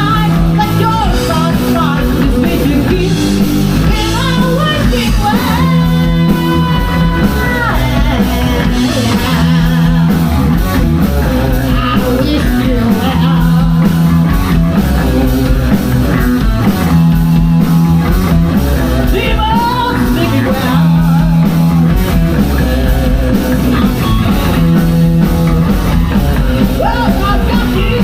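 A rock band playing live, with electric guitar, bass and drum kit under a singing voice.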